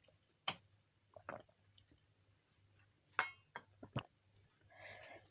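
Close-miked mouth sounds of a person eating: a few separate wet smacks and clicks of chewing, then a short soft rustling noise near the end.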